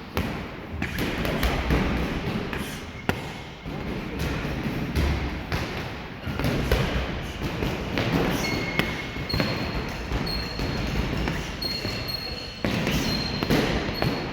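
Boxing training in a gym hall: repeated thuds of gloved punches and shuffling footwork on the floor, with short high squeaks in the second half.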